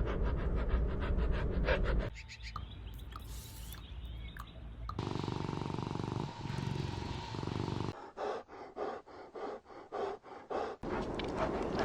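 Small puppies grunting and whimpering across several short spliced clips, with a string of short separate yips or whimpers, about three a second, near the end.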